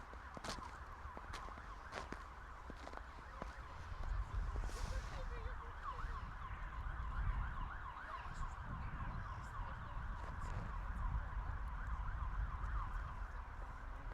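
Footsteps at a steady walking pace over about the first four seconds, above a constant chatter of many small high chirps and a low rumble of wind that grows stronger about four seconds in.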